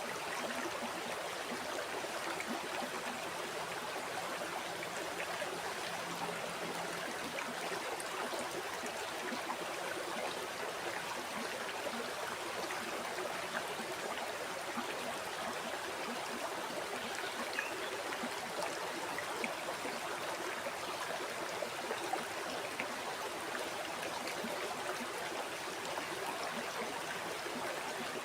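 River water flowing steadily over rocks: an even, unbroken rush with small trickling and gurgling detail.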